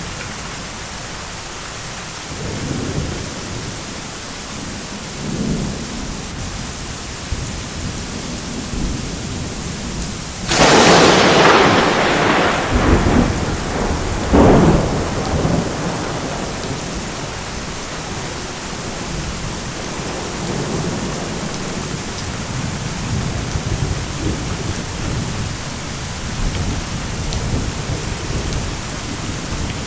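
Steady heavy rain with low rolling thunder. About a third of the way in a loud, sharp thunderclap breaks, followed a few seconds later by a second crack, then the rumble dies back under the rain.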